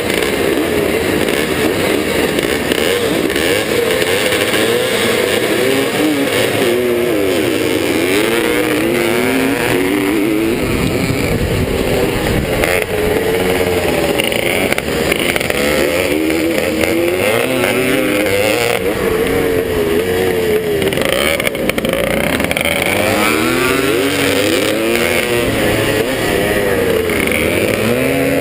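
Vintage motocross motorcycle engine revving hard under load, its pitch climbing and dropping over and over as it is run through the gears.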